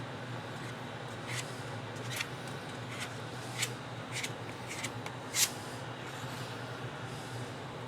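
A plastic spreader scraping body filler, in short, irregular strokes, about eight of them, with the loudest about two-thirds of the way in. Under it runs a steady low hum.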